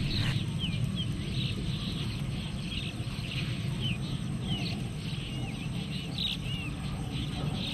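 Wild birds chirping: many short calls and quick pitch glides, scattered throughout, over a steady low outdoor rumble.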